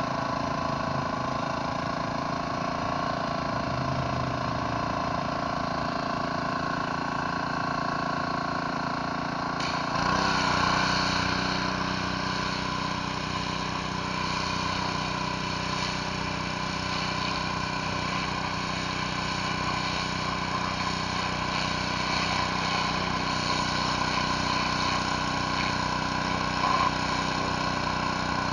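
Gas pressure washer engine running steadily, with the hiss of high-pressure water. About ten seconds in the sound changes abruptly and becomes louder and hissier.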